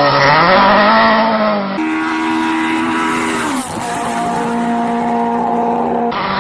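Rally car engines running hard, spliced from different clips: a wavering high engine note, then after a cut a steady engine note that drops in pitch about three and a half seconds in and holds again.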